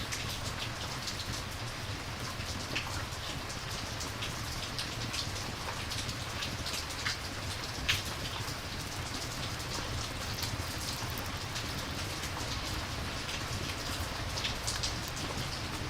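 Steady rainfall with many scattered sharp drip ticks, one louder tick about halfway through.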